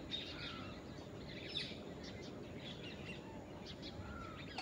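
Small birds chirping and calling in the background over a steady low hum of ambient noise, with many quick chirps and a couple of short whistled notes.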